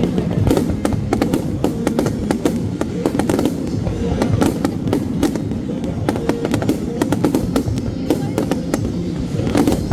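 Fireworks bursting and crackling in rapid succession, with music playing underneath.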